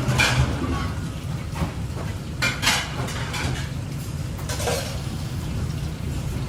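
Metal utensils clinking and scraping against pots and pans in a few scattered strikes, over a steady low hum.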